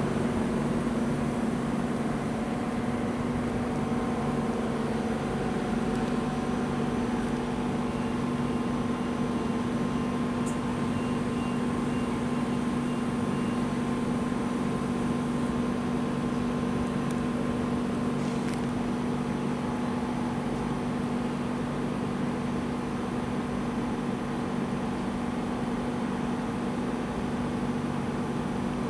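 Stationary ÖBB Railjet train giving a steady electrical hum with a low tone, from its onboard equipment running while it stands at the platform.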